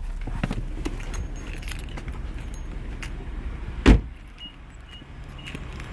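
Small clicks and keys jangling in a car, over a steady low hum, with one loud thump about four seconds in. After the thump the hum drops, as the car is shut down.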